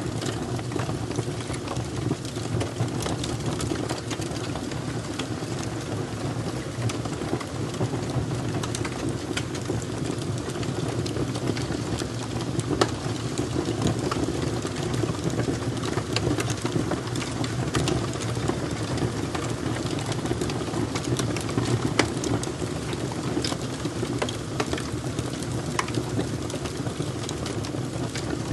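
Fire crackling: a constant scatter of small pops and snaps over a steady low rumble, with a few sharper pops standing out.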